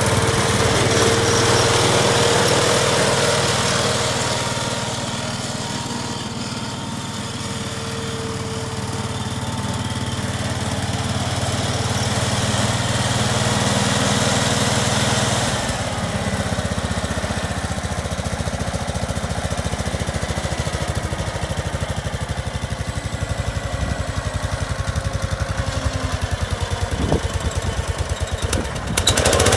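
Case Ingersoll garden tractor engine running steadily. About halfway through it drops to a slower, evenly pulsing idle.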